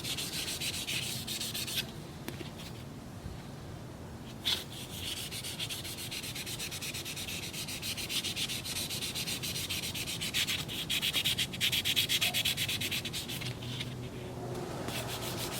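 Fine tan sanding pad rubbed rapidly back and forth over an Oster 76 clipper's case, a fast, even scratching of short strokes as it smooths out scratches. The rubbing eases off for about two seconds near the start, picks up again after a single sharp tap, and breaks briefly a few more times.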